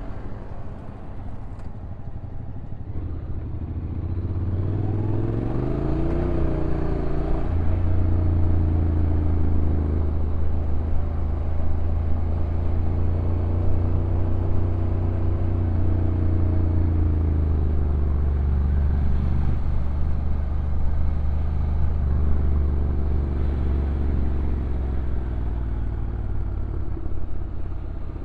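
Honda NC750X DCT's parallel-twin engine running under way on the bike. Its pitch climbs for a few seconds a quarter of the way in, holds a steady note, then eases slowly lower near the end.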